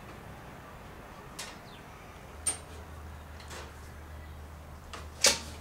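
A few short swishes and clicks as a small 5 hp Honda engine is readied, then a loud whoosh near the end: the pull of its recoil starter rope just before it fires.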